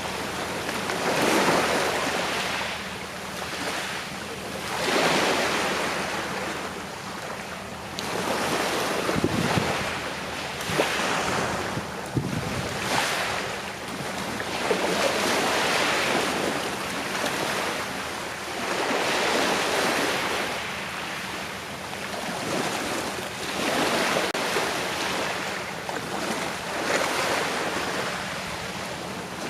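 Sea waves washing onto the shore, a continuous hiss that swells and fades every few seconds as each wave breaks and draws back.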